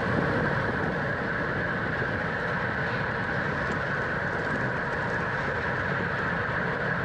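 Steady rushing noise of a road bike ridden at race speed in a pack: wind over the onboard microphone together with tyre and drivetrain hum.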